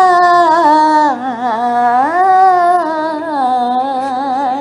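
A woman singing a Bajau song solo, drawing out one long ornamented note with vibrato; the pitch sinks about a second in, climbs back near the middle and eases down again toward the end.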